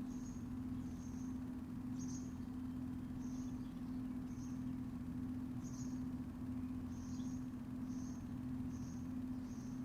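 A small animal chirping: short, high chirps repeating roughly once a second over a steady low hum.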